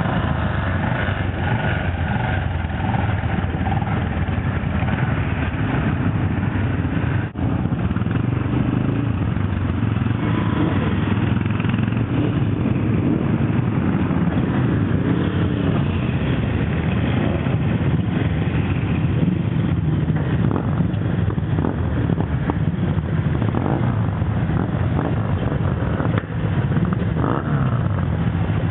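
Old motorcycle engines running continuously, their pitch rising and falling a little.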